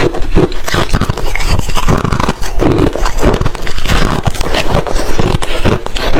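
Hard ice being bitten and chewed close to the microphone: a rapid, unbroken run of loud cracks and crunches.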